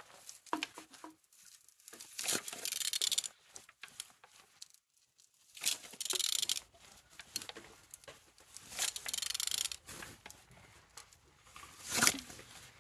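Used 3SZ-VE four-cylinder engine being turned over by hand, heard as four or five short bursts of scraping, clicking noise with pauses between. It turns freely, which the seller calls turning good.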